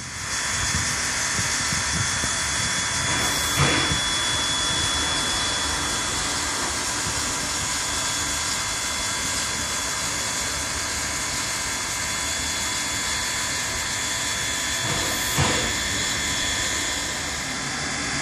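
Steam locomotive hissing steadily as it releases steam, with two short louder sounds, one a few seconds in and one near the end.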